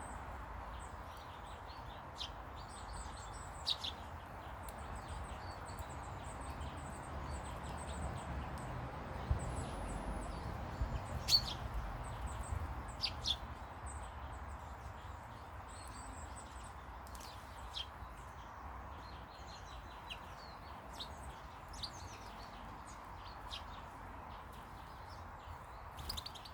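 Small garden birds chirping in short, scattered calls over a steady background noise, with a brief flurry of louder calls about ten to thirteen seconds in.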